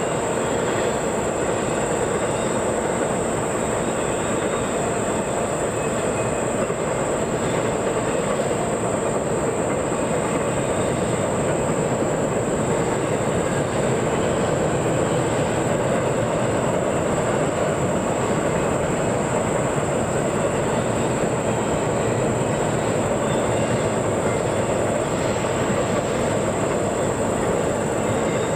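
A train rolling past on the rails: the cars make a steady, even rolling noise that neither builds nor fades.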